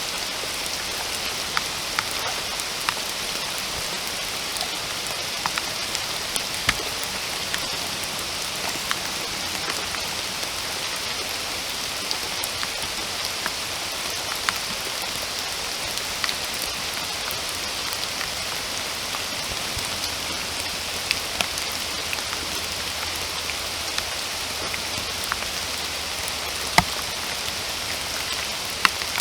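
Steady rain falling in a forest, an even hiss with scattered sharper drips close by, one louder drip near the end.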